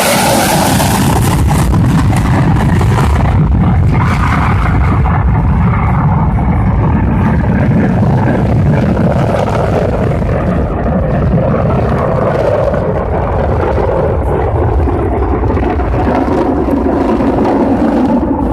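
Jet engines of USAF Thunderbirds F-16 fighters: a loud, continuous low rumble whose hiss fades over the first few seconds as the jets pass and draw away.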